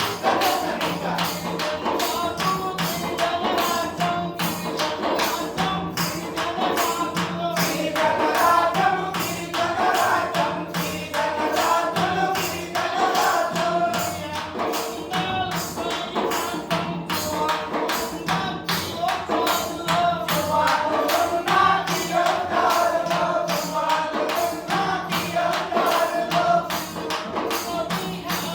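A man singing a Telugu folk song over a fast, steady beat of hand percussion with a tambourine-like jingle.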